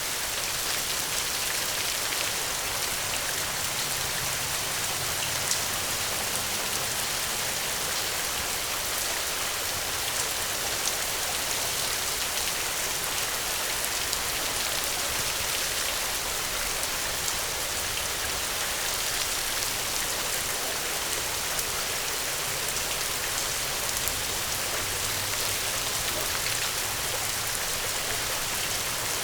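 Steady heavy rain hissing, with scattered small ticks and a faint low rumble twice.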